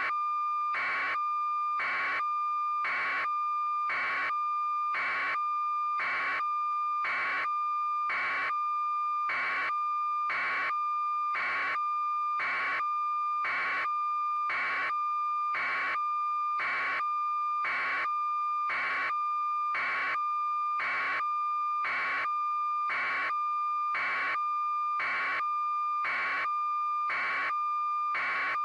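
A steady, high electronic tone with a short pulse about once a second, unchanging in level.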